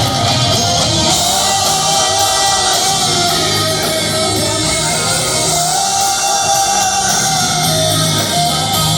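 Live rock band playing in a large hall, with guitar, bass and drums and long held notes over a steady groove.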